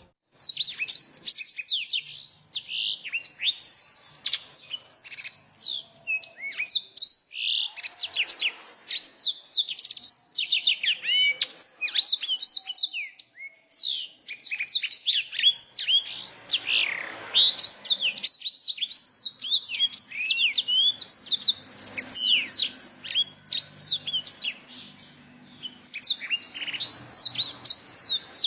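Small songbird singing a fast, continuous run of high chirps, trills and swooping notes, with a brief pause about halfway through and another near the end.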